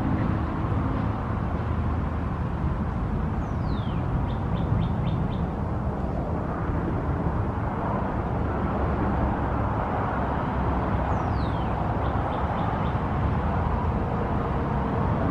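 A bird calls twice, each time a downward-sliding whistle followed by a quick run of about five short notes, over a steady rushing background rumble.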